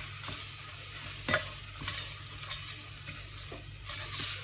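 Onion-tomato masala with ground spices frying in oil in a pressure cooker, sizzling steadily, while a spatula stirs and scrapes it in short strokes. The sharpest scrape comes about a second in.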